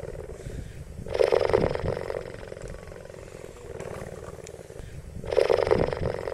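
Cheetah vocalising: a low pulsing rumble runs throughout, broken by two louder, harsher calls about a second long and about four seconds apart.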